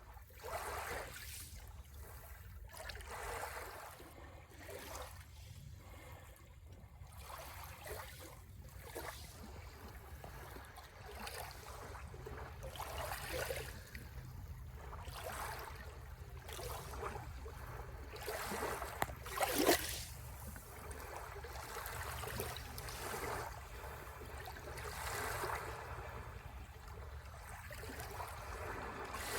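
Sea waves washing onto the shore, one wash after another every few seconds, with a louder, sharper wash about two-thirds of the way through.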